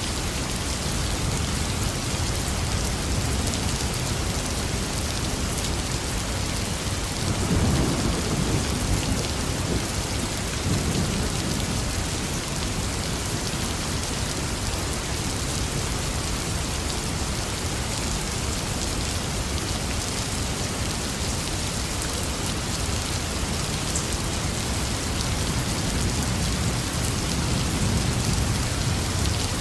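Steady heavy rain falling, with low rolls of thunder about a quarter of the way in and again near the end.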